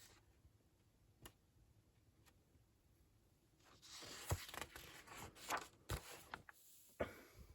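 Paper brochure pages being handled and turned: a faint click about a second in, then from about halfway a few seconds of paper rustling and sliding with sharp crackles.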